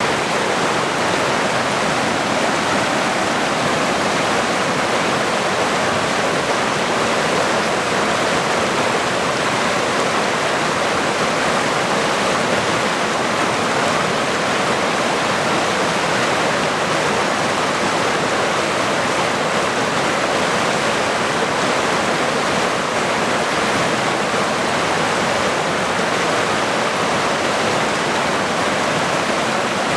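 Strong flowing water of a stream or river: a steady, unbroken rushing.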